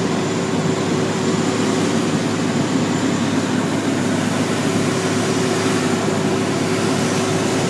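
A fully loaded garbage truck's diesel engine drones steadily under heavy load, heard from inside the cab. The truck is labouring up a long grade at about 30 km/h.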